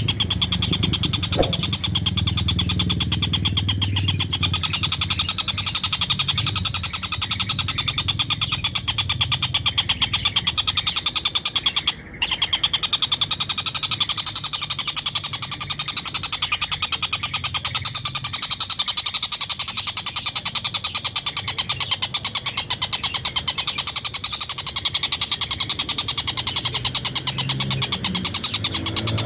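Tengkek buto (collared kingfisher) calling in a long, rapid cackling series ('ngekek') that runs on continuously, with one brief break about twelve seconds in.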